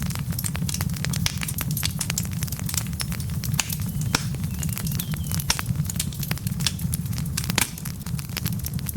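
Wood fire burning in a fireplace: a steady low rumble of the flames under constant crackling, with many quick sharp pops from the burning logs and a couple of louder snaps about four seconds in and near the end.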